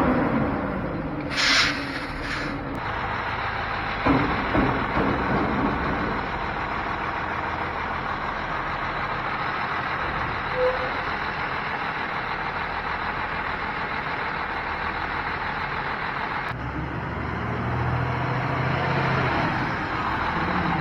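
Heavy truck engine running steadily, with a short air-brake hiss about a second and a half in. The engine sound grows fuller and lower near the end.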